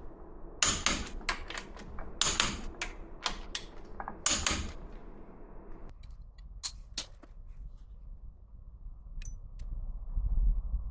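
Clusters of rapid, sharp metallic clicks and knocks from hand tools working on the portal box parts during the first few seconds. Then a few scattered clicks, and a low rumble near the end.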